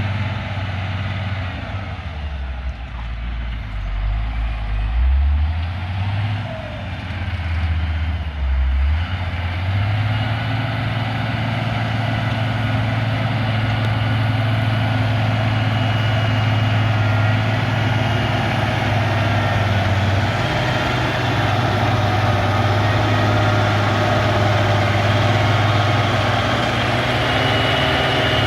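Caterpillar 140G motor grader's six-cylinder diesel engine working. Its pitch drops and rises a few times over the first nine seconds, then holds steady at higher revs for the rest.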